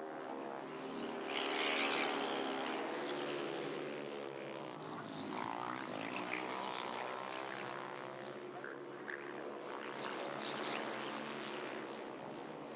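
Several speedway motorcycles racing, their 500 cc single-cylinder methanol engines droning together and rising and falling in pitch as the riders lap the track. The engines are loudest about two seconds in, and the pitch sweeps down and back up around the middle as bikes pass.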